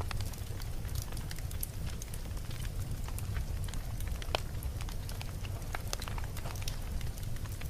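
Wood campfire burning, with irregular sharp crackles and pops over a steady low rumble of flame. One louder pop comes about four seconds in.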